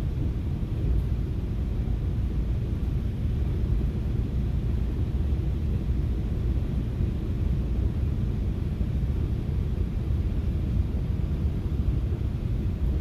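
FrontRunner commuter train running along the track, heard inside a passenger car as a steady low rumble.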